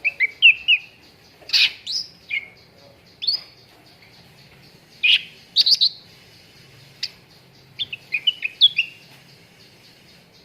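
Cucak ranting bird calling: short, sharp chirps and quick whistled notes in clusters of two to five, with short pauses between them.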